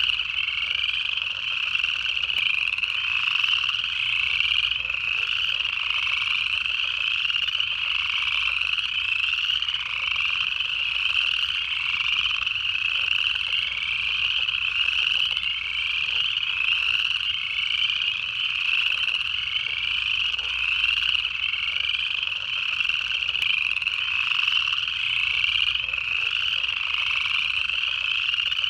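A dense breeding chorus of upland chorus frogs, many males giving overlapping rising trills that repeat over and over without a break.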